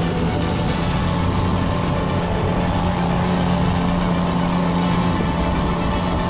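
Motorcycle engine running at a steady pace while riding, with wind and road noise, heard through an action camera's built-in microphone.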